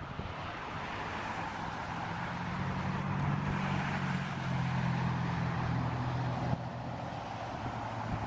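Jet airliner engines running, a steady rush with a low hum under it, growing louder toward the middle and easing off about six and a half seconds in.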